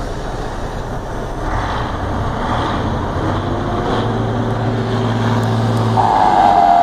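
Scania 112 truck's turbo diesel engine running while parked, building up revs, with its turbocharger whistling: a loud high whistle comes in near the end and starts to fall in pitch.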